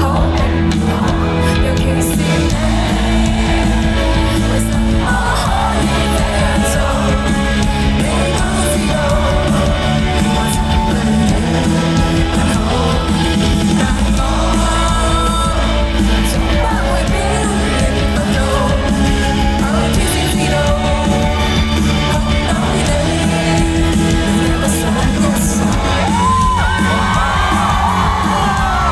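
Live performance by a Hong Kong indie pop band: a full band playing a song with a sung vocal, loud and continuous.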